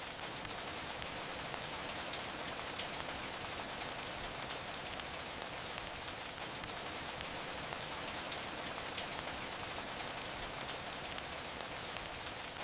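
Steady rain falling, with scattered sharp clicks throughout; the clearest come about a second in and near the middle.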